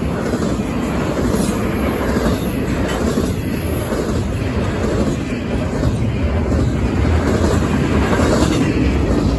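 Double-stack intermodal well cars rolling past close by: steady noise of steel wheels on rail.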